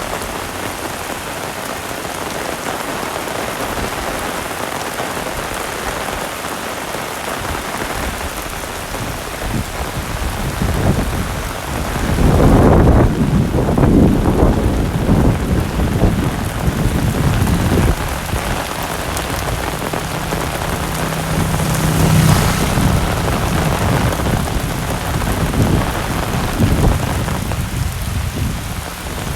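Heavy rain falling steadily. About ten seconds in, a long roll of thunder builds and rumbles loudest through the middle before easing off under the rain.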